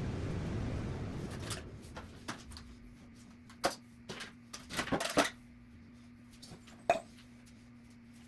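A steady rushing noise dies away over the first two seconds. Then come scattered knocks and clicks of household objects being handled and set down, the loudest about five seconds and seven seconds in, with a faint steady hum behind them.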